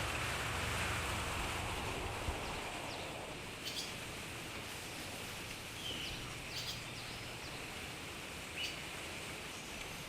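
Steady outdoor ambience with a few short bird chirps. A low rumble fades out in the first few seconds.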